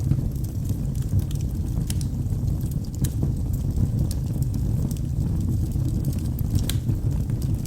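Wood logs burning in a fireplace: a steady low rumble of flame with scattered sharp crackles and pops, one louder pop near the end.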